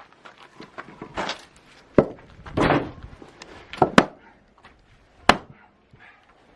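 Axe splitting oak firewood: three sharp, separate strikes on the wood a second or so apart, with duller knocks and clatter between them.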